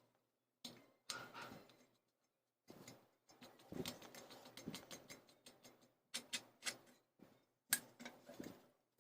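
Metal clicks, clinks and scraping as a bearing puller is worked on the ball bearing of a ceiling fan's motor to pull the worn bearing off, a series of sharp ticks with the loudest near the end.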